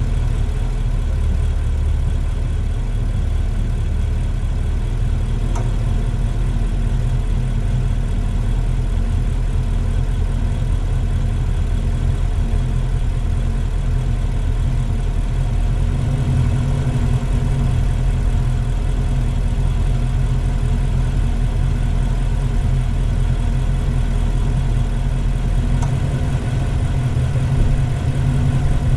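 A car driving at low speed: a steady low engine hum mixed with tyre and road noise.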